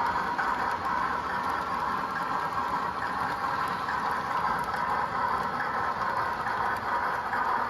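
HO scale model train, the Duluth Missabe & Iron Range Yellowstone #225, running along the layout track: a steady mechanical running noise with faint light ticks.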